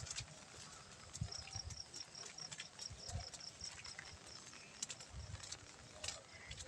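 Rain falling, a steady hiss with scattered drips and taps. From about a second in until about five seconds, a high chirp repeats evenly, about three times a second.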